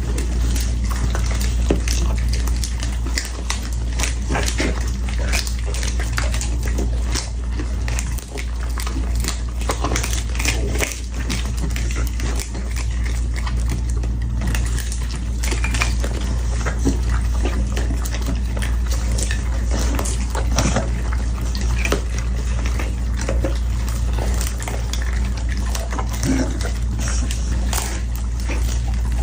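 A dog eating and drinking: a rapid run of wet chewing, smacking and lapping over a steady low hum.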